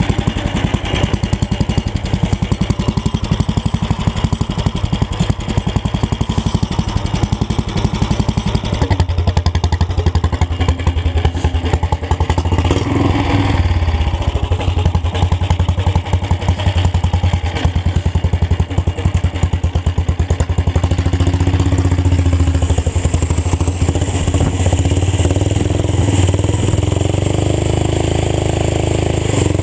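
Old tractor engine running through an open exhaust pipe: a rapid, unbroken string of sharp exhaust pulses as it is driven and slid around. About a third of the way in the note deepens and grows heavier, and near the end the pitch climbs as it revs up.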